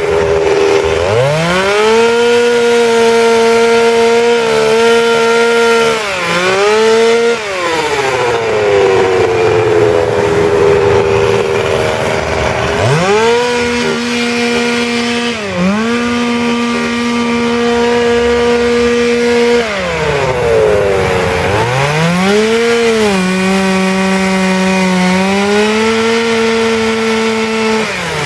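Two-stroke chainsaw carving wood: the engine is run up to full throttle and held there three times, for about five or six seconds each, its pitch falling away to a low run between the cuts and dipping slightly while under load.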